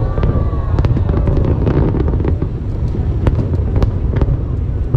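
Aerial fireworks display: a continuous low rumble of booms with many sharp cracks and pops scattered throughout, loud.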